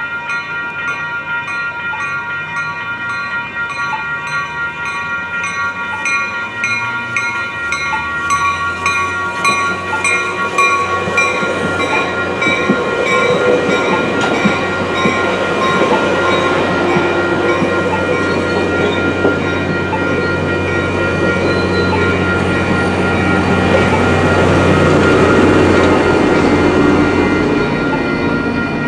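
Grade-crossing warning bells ringing steadily while a Coaster commuter train of bilevel cars approaches and rolls through the crossing. The rumble of the train builds from about a third of the way in and is loudest near the end.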